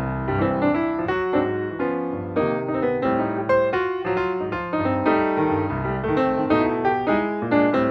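Instrumental piano music, a run of quick struck notes over sustained lower notes.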